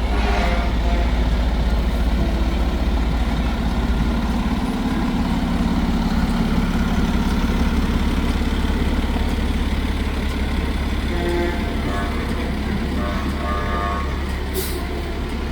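Fire truck's diesel engine running as it rolls past, a steady low drone.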